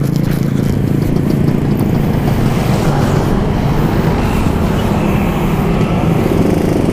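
Yamaha RX-King single-cylinder two-stroke motorcycle engine running steadily while riding, with road noise.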